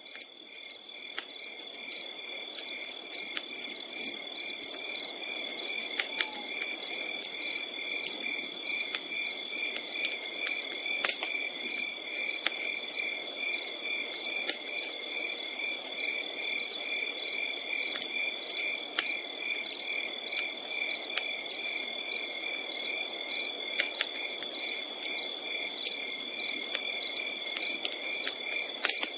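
Crickets chirping: a continuous high trill with rhythmic pulsed chirps, several a second, over sharp irregular crackles of a campfire and a soft low hiss.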